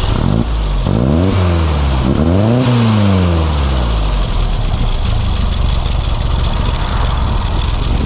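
A car engine revving up and falling back twice in the first few seconds, then running steadily under a loud, even hiss.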